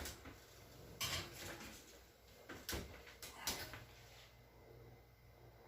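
Oven door and baking pan being handled: four separate knocks and clunks spread over about four seconds, as the dish goes into the oven and the door is shut.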